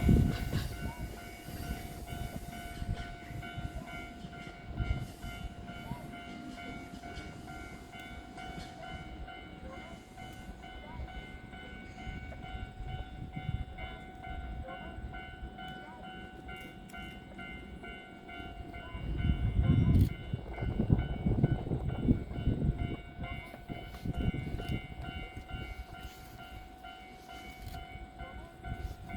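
Electric train at a station platform: several steady tones hum throughout, with a low rumbling of train movement that fades over the first few seconds and swells again about two-thirds of the way through.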